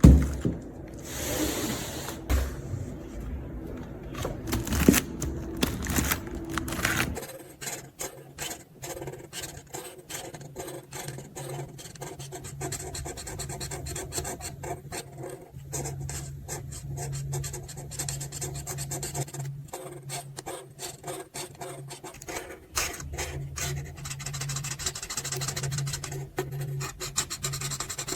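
Marker nibs rubbing and scratching across paper in many quick, repeated strokes.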